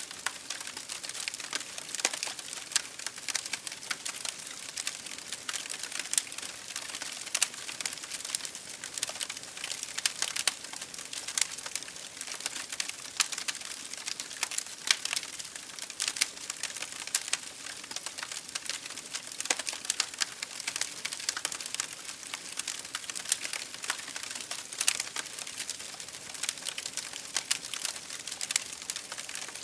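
Wood fire burning in an open fireplace, crackling and popping with many irregular sharp snaps over a steady hiss.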